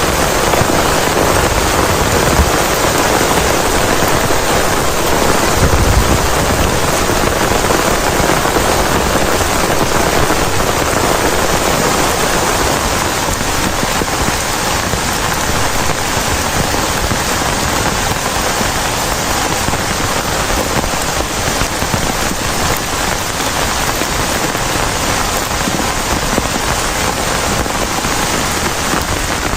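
Heavy rain falling steadily in a dense, even patter, with a brief low thump about six seconds in.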